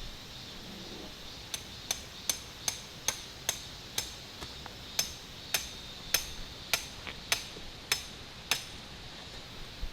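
Hammer blows on metal: a steady run of about fifteen strikes, roughly two a second, each with a short ringing.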